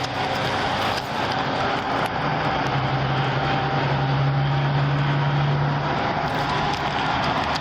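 Road traffic noise from vehicles passing on the interstate, a steady rushing sound, with a low engine hum that holds for a few seconds in the middle.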